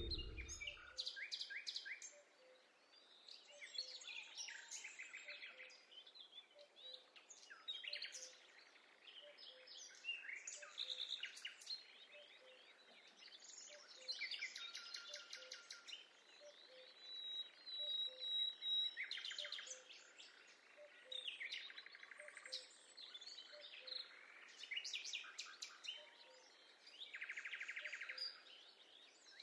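Several wild birds chirping and singing in short trilled phrases, coming in bouts with brief gaps between them.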